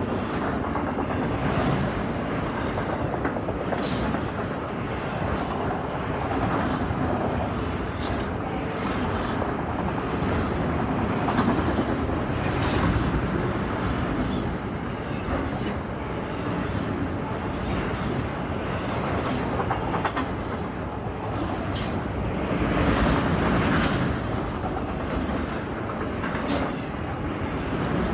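Canadian Pacific freight train's cars rolling past close by: a steady loud rumble of steel wheels on rail, with scattered clicks and brief high wheel squeals.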